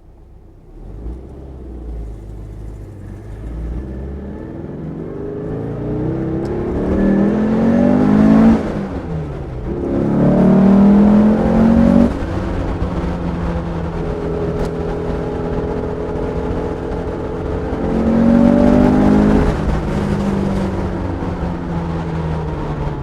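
A 1967 Porsche 912's air-cooled flat-four engine, built up to 2.1 litres, accelerating hard through the gears. The engine note climbs in pitch and drops sharply at gear changes about eight and twelve seconds in, holds steady while cruising, then climbs and drops once more near the end.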